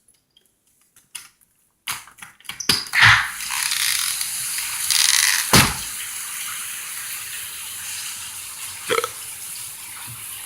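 Heavy rain pouring down steadily, coming in about two seconds in after a few clicks, with a sharp knock in the middle and another near the end.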